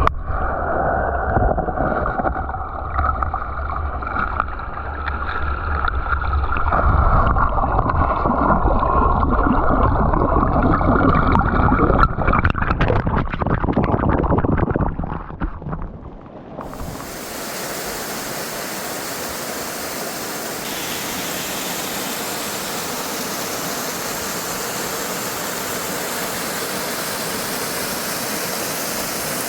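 Waterfall rushing. At first it sounds muffled and rumbly. A little past halfway it switches abruptly to a steady, bright hiss of falling water.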